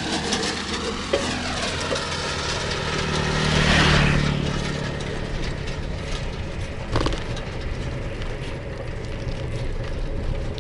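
A car passing close by, its engine and tyres swelling to loudest about four seconds in and then fading, over steady road noise. A sharp click comes about seven seconds in.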